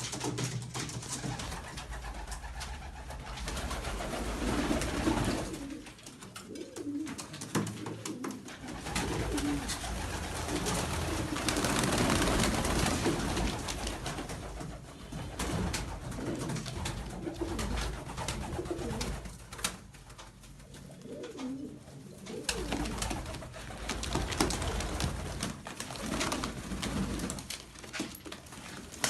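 Domestic pigeons cooing, with low coos repeating over and over against a noisy background.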